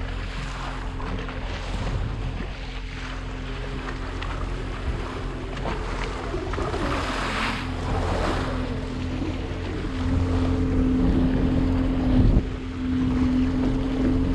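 A motor boat's engine running steadily, with water washing against the hull and wind on the microphone. The engine hum grows louder about two-thirds of the way through.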